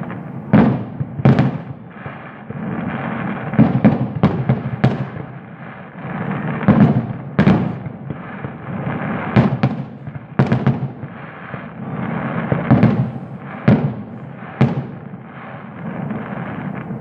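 Fireworks going off: a string of sharp bangs at irregular intervals, sometimes two or three in quick succession, over a continuous crackling rumble of more fireworks.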